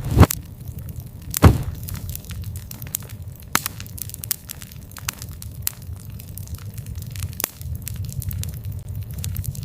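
Campfire of burning wood crackling, with two loud pops early on and many small snaps, over the low steady roar of the flames.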